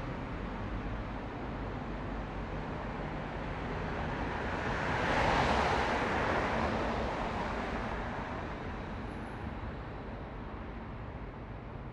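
Steady traffic-like noise with a vehicle passing by: the sound swells to its loudest about five seconds in, then slowly fades away.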